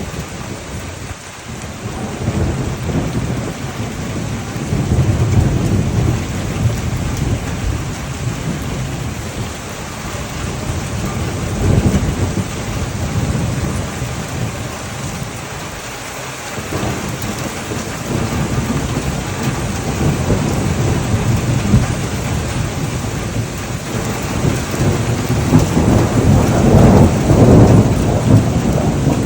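Heavy rain falling steadily through a thunderstorm, with rolling thunder rumbling in low swells, building loudest near the end.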